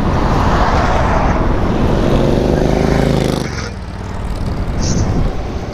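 Wind buffeting the microphone while riding an e-bike on the street, with traffic noise. From about two seconds in, a steady low engine-like drone joins and cuts off suddenly about a second and a half later.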